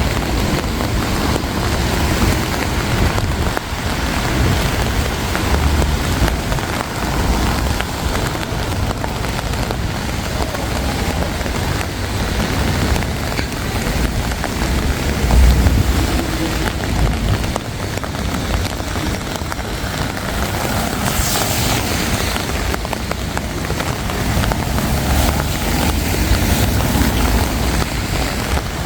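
Steady hiss of rain on a wet city street, with a few low rumbles.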